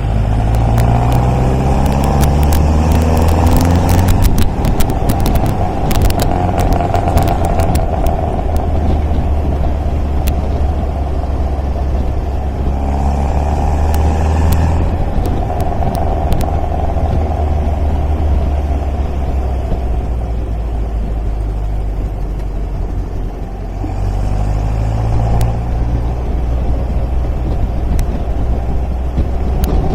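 MGA roadster's four-cylinder engine and exhaust pulling on the road, the engine note climbing and dropping several times as it accelerates and changes gear. Sharp clicks and crackles come through in the first several seconds.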